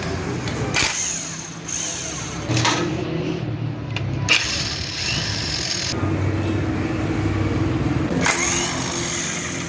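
A motor-driven machine running with a steady low hum, with repeated hissing bursts a second or two long on top.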